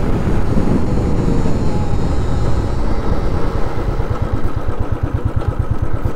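Royal Enfield Classic 350 single-cylinder engine running under heavy wind rumble as the bike slows, the pitch falling over the first few seconds. From about halfway in, the engine's thump settles into a steady, even beat.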